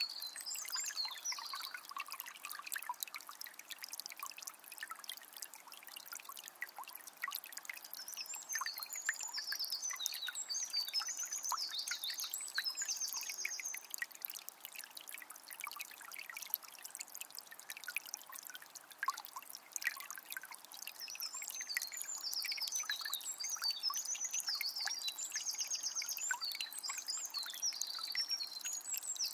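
Forest river flowing with a steady trickling, splashing rush. A songbird sings two bouts of rapid, high trilling phrases, about a third of the way in and again near the end.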